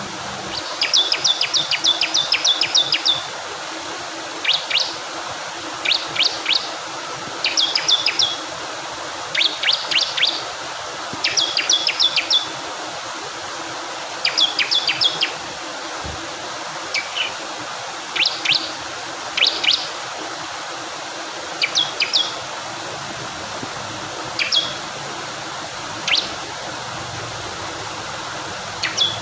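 Bar-winged prinia (ciblek kristal) singing short bursts of rapid, sharp, high notes every second or two. Under it runs the steady rush of flowing water.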